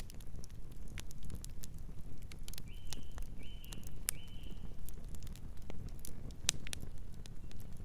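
Fire crackling with irregular sharp pops over a low steady rumble. About three seconds in, a bird chirps three short notes in quick succession.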